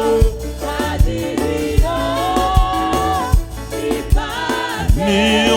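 Live gospel worship music with a steady drum beat about once a second and held notes from voices and instruments between the lead singer's lines.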